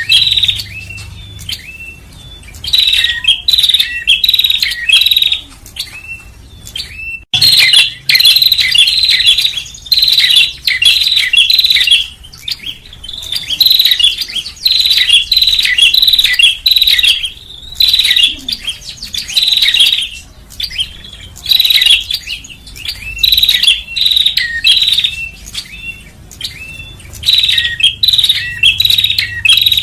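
Prinia (prenjak) song: bursts of rapid, high chattering chirps, each a second or two long, repeating with short pauses. The sound cuts out for an instant after about seven seconds.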